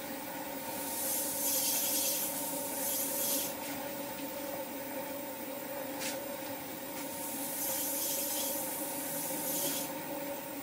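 Abrasive paper sanding a wooden workpiece spinning on a wood lathe: two hissing passes of about three seconds each, over the lathe motor's steady hum.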